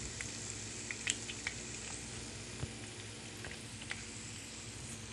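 Chicken wings sizzling in a pan in their glaze as they finish cooking: a steady frying hiss with scattered small pops and crackles.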